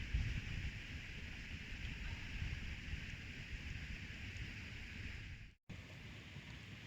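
Wind buffeting the microphone as a gusty low rumble, over a steady outdoor hiss; the sound cuts out for a moment about five and a half seconds in, then carries on a little quieter.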